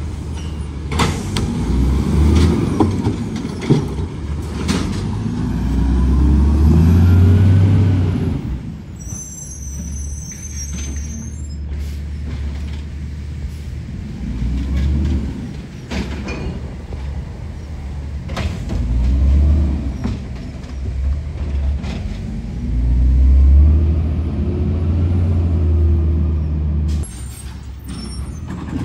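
Heavy truck's diesel engine revving up and settling back again several times, with scattered clanks and knocks.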